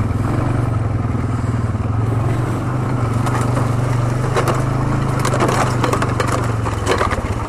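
ATV (quad) engine running steadily at low speed as the quad rolls along the trail, with crunching and crackling of stones under the tyres from about three seconds in. The engine eases off near the end.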